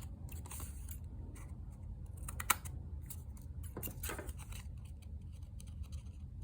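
Scissors cutting paper: a few separate snips with sharp clicks of the blades, the clearest about two and a half seconds in and around four seconds in.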